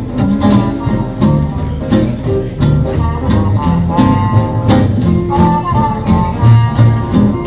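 Swing band playing an instrumental passage: guitar chords on a steady beat over walking double bass, with a horn holding and bending long melody notes above.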